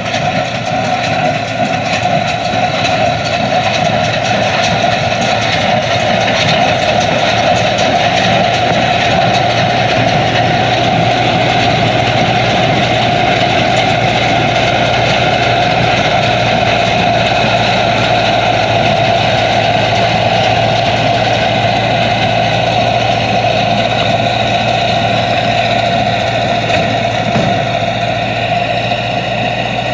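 Hay baler and the engine driving it running steadily at a constant speed, a continuous mechanical drone with no change in pace.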